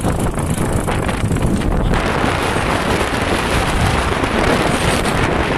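Wind buffeting the microphone of a moving vehicle: a loud, steady rush with running noise underneath, turning hissier about two seconds in.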